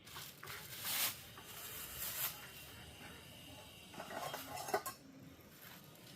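Utensils scraping and clinking against pots and plates in several short spells, as food is dished out.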